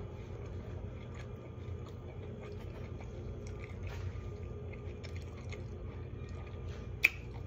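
Faint close-miked mouth chewing of a BLT sandwich, with a drink of water from a glass jar about halfway through. A sharp click near the end.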